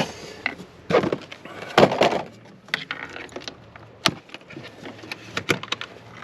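A run of sharp clicks, knocks and short scrapes from hands working the opened air filter housing on a Mercedes W201 190D, with the loudest scrapes about one and two seconds in.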